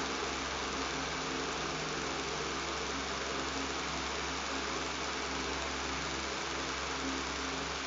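Electric fan running steadily: an even whooshing hiss of moving air over a low motor hum and buzz that does not change.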